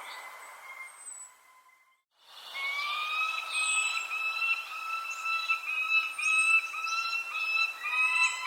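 Bird-sound ambience: a sustained, slightly wavering whistling tone with overtones, with short high falling chirps over it. The sound drops out for about half a second around two seconds in, then resumes.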